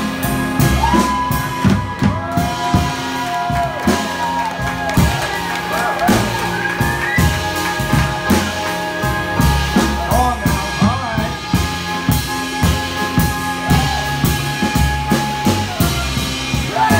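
Cornet holding one long, steady note while a band with drums plays underneath, a feat of breath control. The held note stops near the end.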